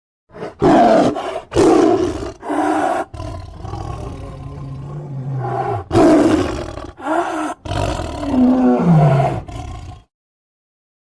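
Demon-style roaring and growling voice sound effects: a string of short roars, a long drawn-out growl in the middle, then more roars, the last one falling in pitch. It cuts off abruptly about ten seconds in.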